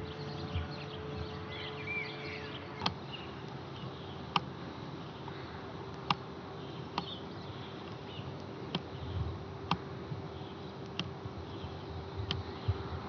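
An insect buzzing steadily at one even pitch, with sharp ticks about every second and a half and a few faint bird chirps in the first two seconds.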